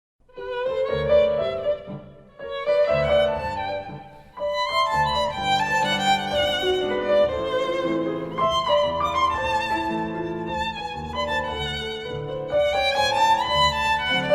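Instrumental music starting from silence: a violin playing a melody with vibrato over a lower accompaniment, with short pauses between the first phrases.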